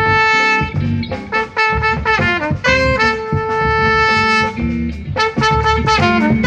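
Live instrumental jazz quintet playing, a trumpet carrying the lead with long held notes broken by quick runs, over drums and bass.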